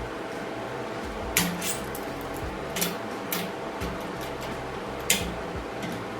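Several sharp metal clanks and taps of steel pieces being handled on a metal work table, spaced a second or so apart, over a steady background hum.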